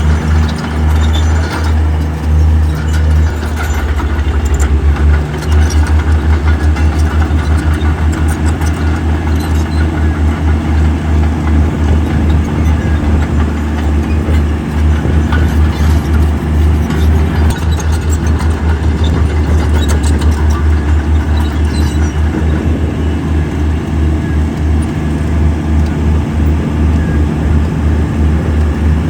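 Heavy diesel engine of earthmoving machinery running steadily, a loud low engine note that pulses evenly.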